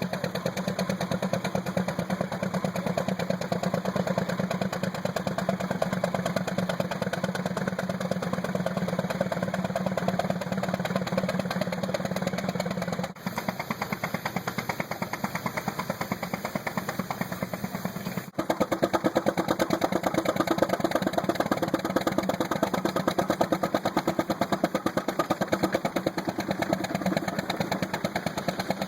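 Tractor engine running with a steady, even firing beat, cut off abruptly about 13 seconds in and again about 18 seconds in, where the engine sound changes.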